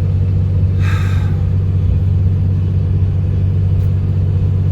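Steady low rumble of a pickup truck driving at highway speed, engine and road noise heard from inside the cab.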